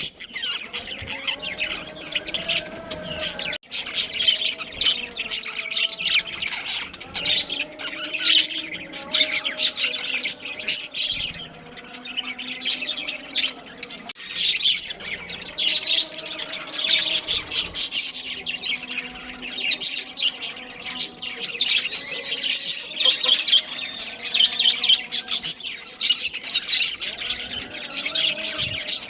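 A flock of budgerigars chattering and chirping continuously, a dense mix of squawks, warbles and short tweets.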